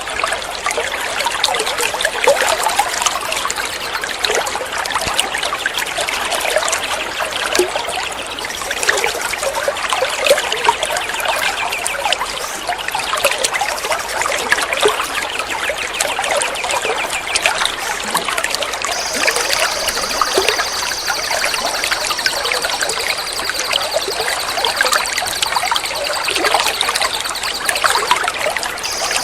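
Flowing water trickling and splashing steadily. About two-thirds of the way through, a high, even buzzing trill starts and runs on over the water.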